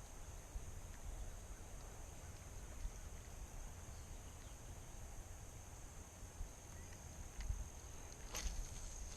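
A steady high-pitched insect trill, like crickets, drones on over a low outdoor rumble of wind or handling. A few faint clicks come through, with a sharper knock near the end.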